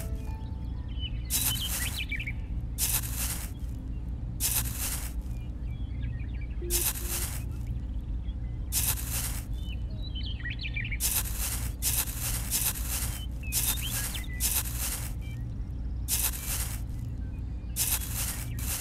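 Small hand trowel scraping and scooping into damp sand, a short gritty scrape every second or two, quicker in the middle. Faint bird chirps now and then over a steady low hum.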